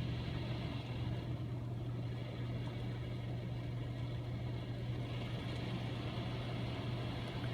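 Steady low hum of a touchless car wash's motors running during the wash cycle, heard from inside the car.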